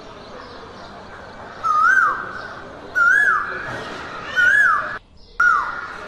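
A bird calling again and again: a clear whistled note that rises and then falls, four times, about one every second and a half, over a faint steady background hiss. The sound drops out for a moment about five seconds in.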